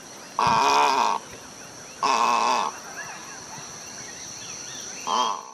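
Egret calling three times: a long call about half a second in, a shorter one around two seconds, and a brief one near the end.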